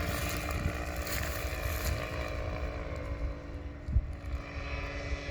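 Paratrike's propeller engine running steadily in flight just after takeoff, with wind rumbling on the microphone.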